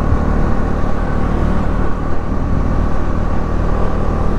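Motorcycle running at a steady cruising speed on the road, a continuous low rumble of engine and road noise.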